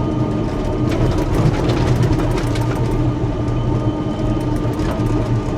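Caterpillar D6K2 XL bulldozer's diesel engine running steadily, with the clatter of its steel tracks as it moves.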